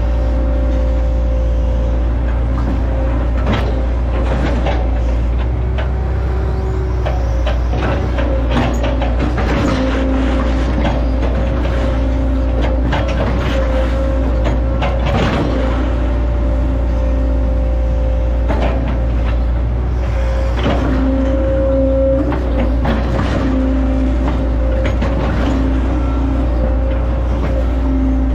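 Hitachi ZX110 excavator's diesel engine running steadily, with repeated cracks and knocks as it fells and breaks up oil palm trunks.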